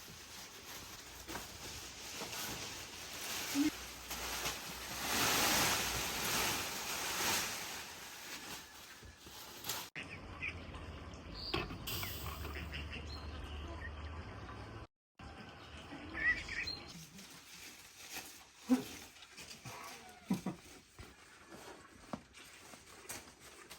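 Outdoor rural ambience: a rushing noise for about the first ten seconds, then birds chirping with scattered clicks and knocks and a few short low calls.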